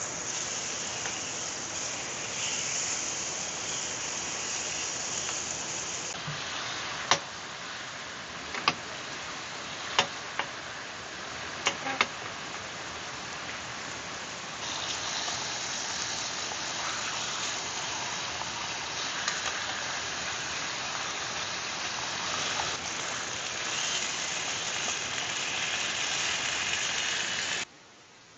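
Steady rain mixed with the rush of a valley stream, with a few sharp clicks between about seven and twelve seconds in. The sound drops off abruptly near the end.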